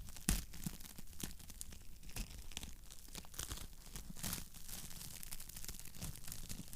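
Wood fire crackling in a fireplace: a steady run of irregular small pops and snaps, with one louder crack just after the start.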